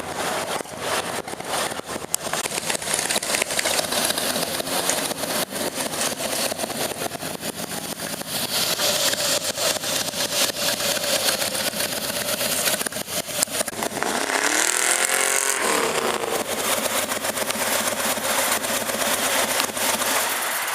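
1968 Holden Monaro HK GTS engine running while cruising, with a steady rush of road and wind noise. About two-thirds of the way through the engine note dips and then climbs again.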